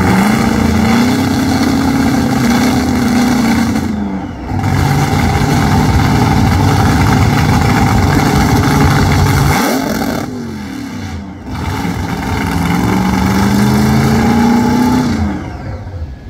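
High-powered car engine held at high revs, its pitch stepping up and down. It drops off briefly about four seconds in, falls away again near ten seconds, then revs back up before cutting out near the end.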